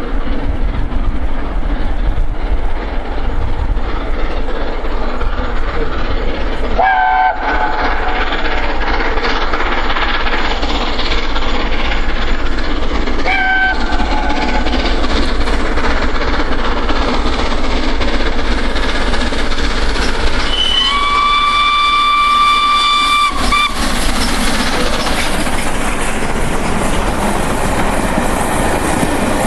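LNER Peppercorn Class A1 steam locomotive 60163 Tornado climbing a steep bank with its train, its exhaust and running noise loud and steady. The whistle sounds in two short blasts, then in one longer blast of about three seconds past the middle. Near the end the noise grows brighter as the train rolls past.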